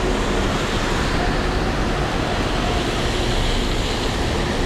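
Heavy rain pouring down in a city street, with traffic running steadily behind it.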